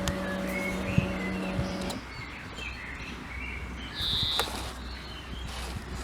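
Birds chirping, with a steady low droning tone that stops sharply about two seconds in.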